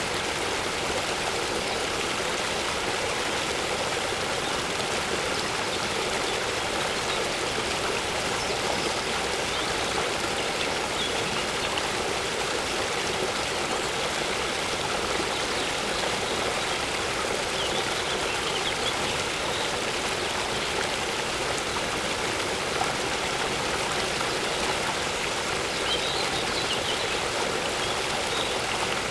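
A waterfall splashing and running steadily, with faint, short, high bird chirps here and there.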